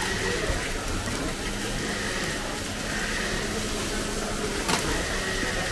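Oyster omelette frying in a large wide pan: a steady sizzle over a low hum, with a sharp clink of a metal spatula against the pan near the end.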